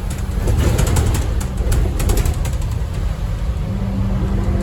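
Scania N230UD double-decker bus heard from inside: its five-cylinder diesel engine running under a run of interior rattles and clicks, with a steadier engine note setting in near the end.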